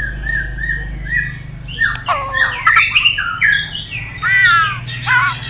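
White-rumped shama (murai batu) singing: a row of short repeated notes, then from about two seconds in a fast, varied phrase of whistles, sliding and falling notes and harsher squawks. A steady low hum runs underneath.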